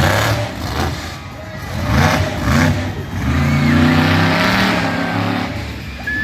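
Monster truck engine revving hard, with the revs surging and dropping several times, then held high for a couple of seconds in the middle.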